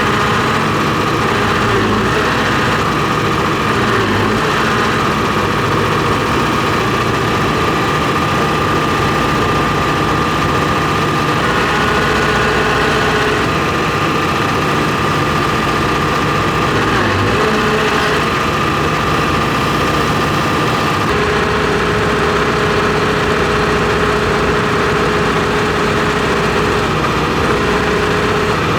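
John Deere 245G excavator's diesel engine running steadily on freshly changed fuel filters, with a steady high whine over it that shifts pitch a few times.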